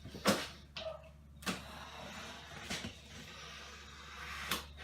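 A knife cutting the strip down the middle of a cardboard box, with a few sharp clicks and knocks and a short scraping rasp about a second and a half in.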